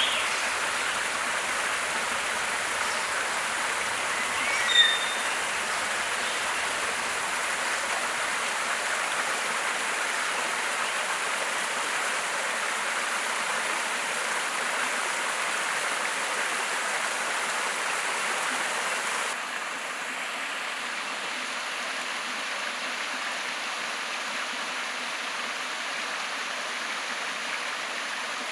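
Steady rushing of a forest stream. A few short bird chirps come over it in the first few seconds. About two-thirds of the way through, the water sound drops slightly in level.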